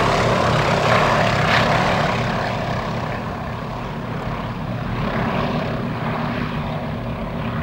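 Yak-52 trainers in formation flight, their nine-cylinder radial engines droning with propeller noise, loudest about a second in and then easing off as the formation climbs away.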